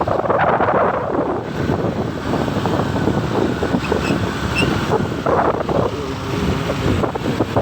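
Wind rushing over the microphone on a moving motorcycle, with the motorcycle's engine running underneath.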